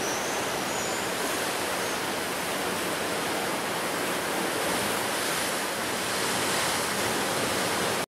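Ocean surf breaking and washing onto the shore in a dense, steady rush, swelling a little in the second half.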